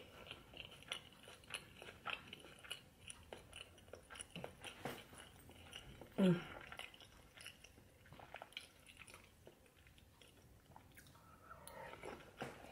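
A person chewing and biting into braised oxtail stew, with many small wet clicks of mouth and food. About halfway through comes one short, louder sound that slides down in pitch.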